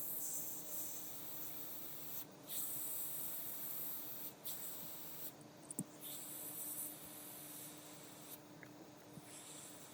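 JCID EM02 CNC machine running on an iPhone logic board, most likely its spindle grinding down a chip. A scratchy hiss comes in passes of one to two seconds with short breaks, over a steady low hum.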